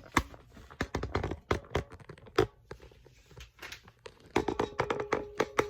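Hands handling plastic parts and wrapping: a run of irregular sharp clicks and knocks with crinkling in between.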